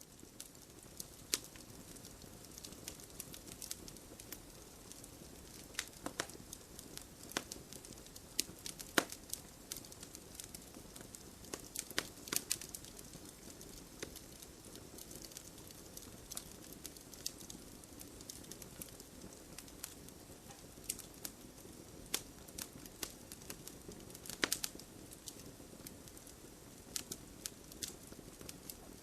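Wood campfire burning: a steady low rush of flame with irregular sharp crackles and pops from the burning wood, a few much louder than the rest.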